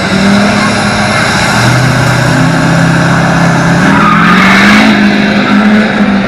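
Truck engine revving hard, its pitch climbing over a few seconds, with tyres squealing.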